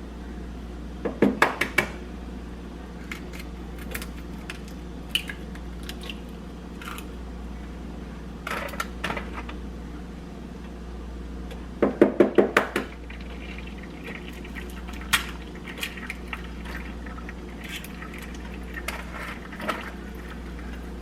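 Kitchen clatter: scattered clinks and knocks of dishes and utensils, with two quick runs of about five strikes each, over a steady low hum.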